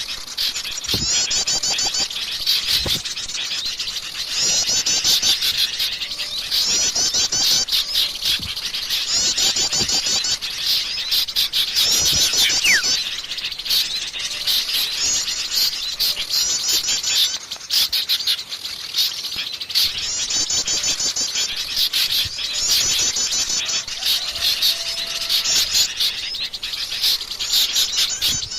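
A noisy chorus of small songbirds chirping and twittering without a break, with bursts of fast, high trills repeating every two to three seconds.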